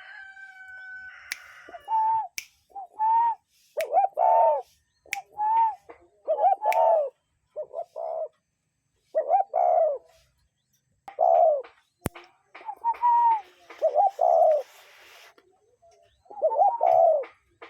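A bird calling in a series of short, low cooing notes, repeated irregularly about once a second with small gaps. There is a held, steady whistling tone during the first second and a half, and a single sharp click about twelve seconds in.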